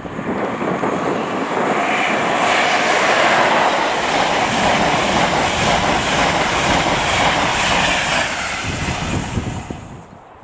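Greater Anglia intercity train of Mark 3 coaches passing close at speed: a loud rush of wheels on rail and air that builds over the first couple of seconds, holds, and dies away near the end.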